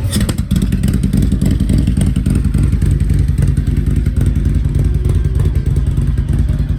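Motorcycle engine idling, a loud, steady low-pitched running with an even pulsing beat, and a few clicks about half a second in.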